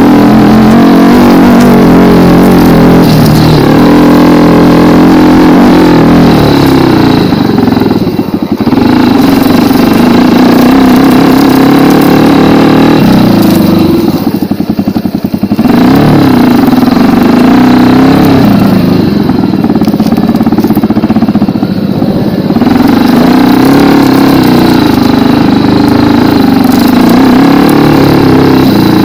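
Racer 250 K2 dirt bike's 250 cc single-cylinder four-stroke engine (172FMM) revving up and down while being ridden over rough ground. Pitch rises and falls with the throttle, and there are several short drops as the throttle closes, around eight, fifteen and twenty-one seconds in.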